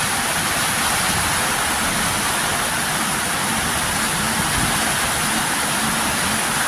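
Heavy tropical downpour: a loud, steady hiss of rain pouring down without a break.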